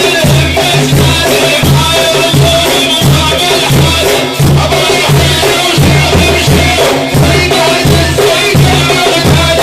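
Frame drums beating a steady rhythm, about two strokes a second, under voices chanting a Sufi dhikr.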